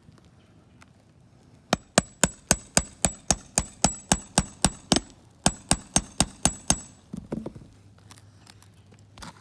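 Roofing nails being driven in a fast, even run of about four strikes a second, with a short break halfway, then a brief scraping rustle.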